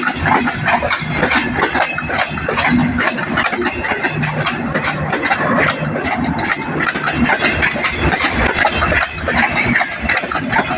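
Train running on the track: a steady engine with a rapid, dense clatter over it.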